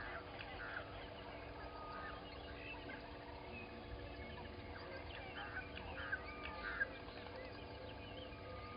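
Morning bird chorus: many birds giving short, overlapping calls and chirps, with a few louder calls in the second half.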